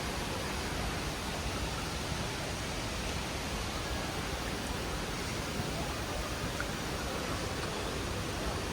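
Steady, even rushing noise in the cabin of an Airbus A320 airliner: the constant roar of airflow and engines heard from a passenger seat.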